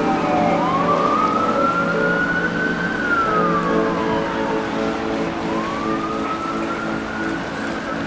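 Wailing siren of an emergency vehicle: one tone rises slowly, falls over a couple of seconds, then rises again near the end. A steady low drone runs underneath.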